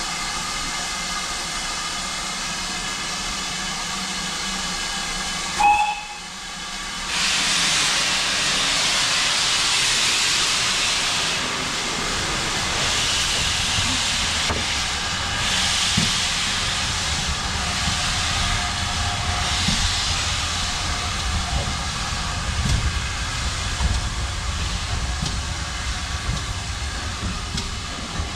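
A GWR Manor-class steam locomotive hissing steam. A short loud blip comes about six seconds in, then a louder rush of escaping steam starts. Through the later part a low rumble with scattered knocks runs under the hiss.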